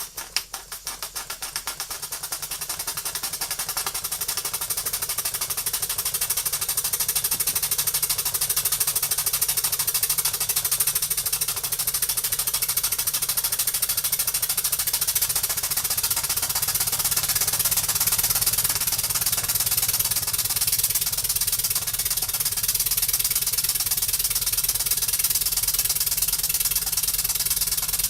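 Small over-type model steam engine being opened up. Its exhaust beats quicken and grow louder over the first several seconds until they run together, then it runs fast and steady, throwing out steam.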